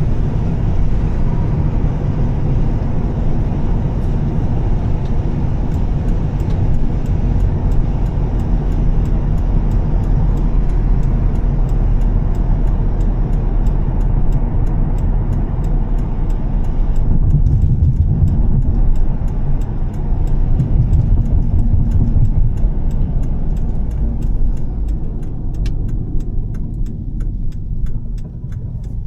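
Volvo S60 T6's turbocharged inline-six engine and Heico exhaust running steadily at cruise, mixed with road and tyre noise. The sound eases off slightly near the end.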